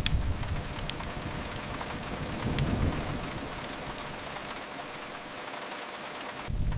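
Steady rain hiss with a few sharp fireplace crackles. A low rumble fades away over the first three seconds and swells back in near the end.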